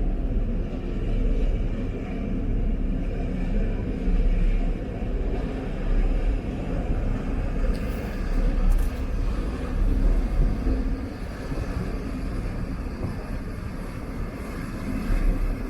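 Low, steady engine rumble that swells and fades in loudness.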